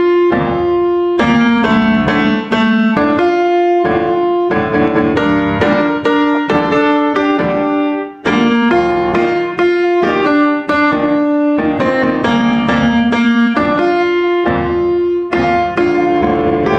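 Background piano music: a slow melody of sustained, ringing notes with chords.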